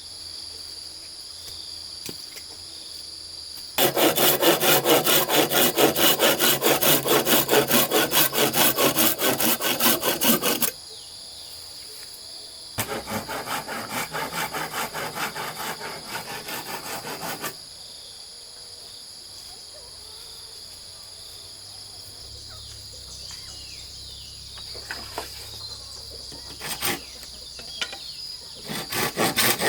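Hand saw cutting with fast, even back-and-forth strokes in two long bouts, pausing between them and starting again at the end. A steady, high-pitched drone of insects runs underneath.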